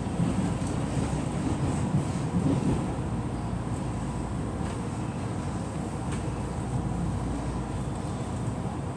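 Taiwan Railway passenger train running, heard from inside the carriage: a steady low rumble with a few faint clicks.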